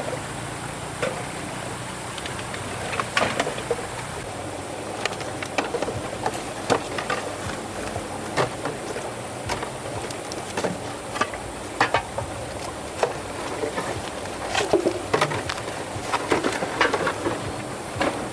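Irregular sharp knocks and clicks, a dozen or more at uneven spacing, over a steady background hiss.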